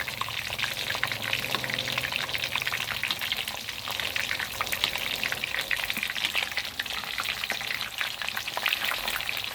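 Whole giant gourami deep-frying in a wok of hot oil: a steady crackling sizzle with many small pops as its scales puff up and crisp.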